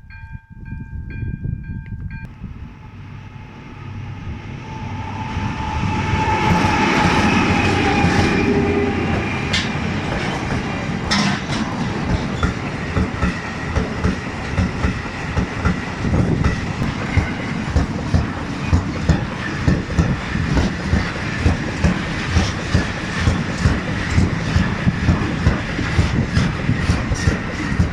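Repeating bell-like tones sound for the first two seconds, then diesel locomotives of a freight train approach and pass, swelling to their loudest about seven seconds in. The freight wagons follow, their wheels clacking over rail joints in a steady rhythm of just under two clacks a second.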